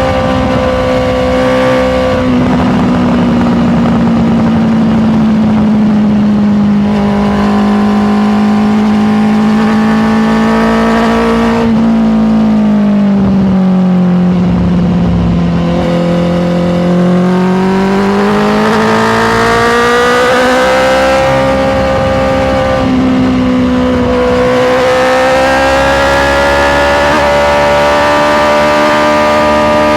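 Honda CBR650R's inline-four engine running under way, its note falling and rising with the throttle and jumping abruptly in pitch several times as gears change.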